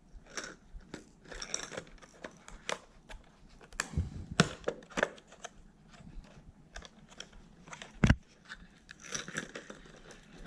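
Plastic lure packaging being opened and handled: irregular crinkles and clicks, busiest about four to five seconds in, with a sharp knock at about eight seconds that is the loudest sound.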